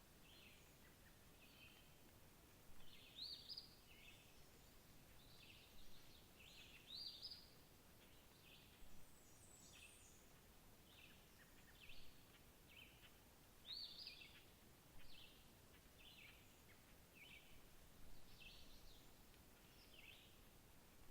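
Faint birdsong: short, high chirps and calls recurring every second or so, a few of them louder, over a quiet steady background hiss.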